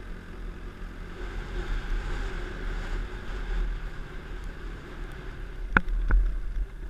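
A motor running steadily under a low wind rumble, with two sharp knocks near the end.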